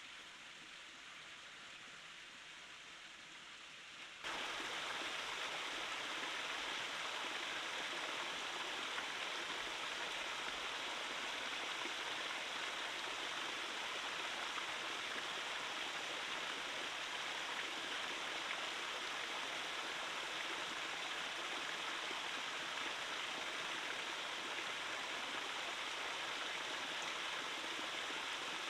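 Stream water rushing steadily. It is fainter for about the first four seconds, then jumps suddenly louder and stays level.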